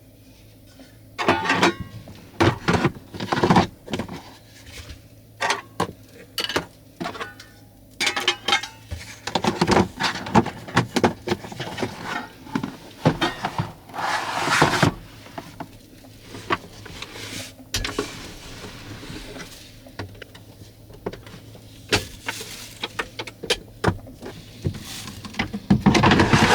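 Irregular clattering, knocking and rustling of objects being handled in a small space, over a faint steady low hum.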